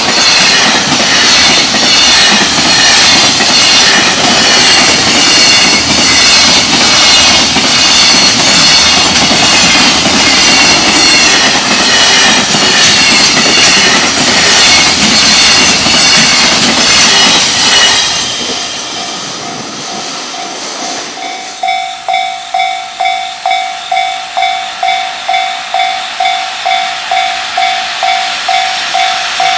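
A long container freight train passing close at speed: a loud, continuous rumble and rattle of wheels on rail and wagons, which dies away about eighteen seconds in. A few seconds later a Japanese level-crossing warning bell starts ringing, about two dings a second, as the next train approaches.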